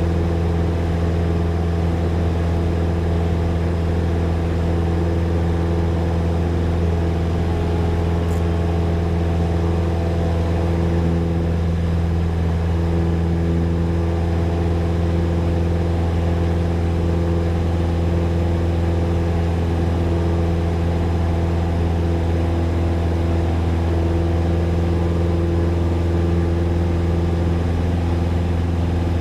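Light aircraft's piston engine and propeller running steadily at climb power.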